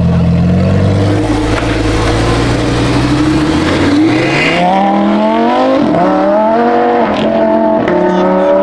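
High-performance sports car engine running low at first, then revving up as the car accelerates away. The pitch climbs, drops briefly twice during gear changes, and climbs again.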